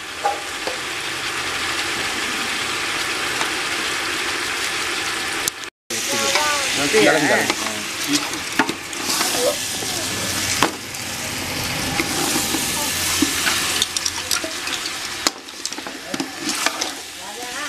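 Chicken pieces and spice powder sizzling in oil in a hot aluminium pot while a metal ladle stirs them, with scrapes and knocks of the ladle against the pot. The sound breaks off briefly about six seconds in.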